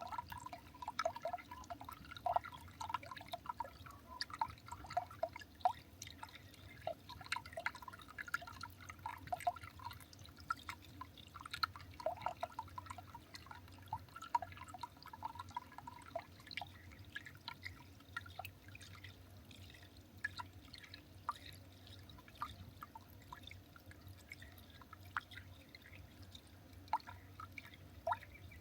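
Irregular faint dripping: small plinks and clicks, thick in the first half and sparser later, over a low steady hum.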